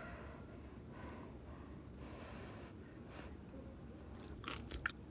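Soft breaths through the nose over a low room hum, then a quick cluster of sharp clicks about four and a half seconds in.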